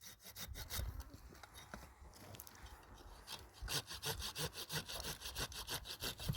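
Quick, even rasping strokes, about five a second, like a hand saw working through wood. They grow louder and more regular about three and a half seconds in.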